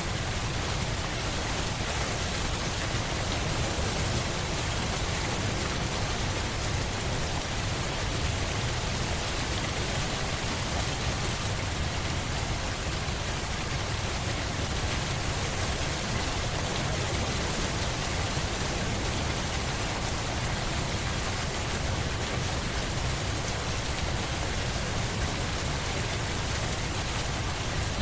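Steady, even rainfall, a constant hiss of rain with a low rumble underneath and no change in level.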